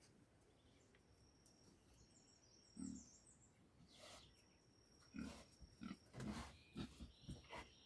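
A series of short, low animal calls: one about three seconds in, then several in quick succession in the second half, over a faint steady high-pitched insect-like tone.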